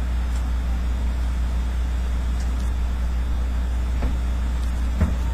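Steady low hum with an even background hiss, and two faint clicks about four and five seconds in.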